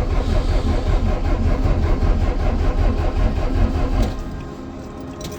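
Starter motor cranking the DAF LF45's cold diesel engine in an even, rapid rhythm without it firing, then stopping about four seconds in: a hard cold start in sub-zero temperatures, the engine not catching.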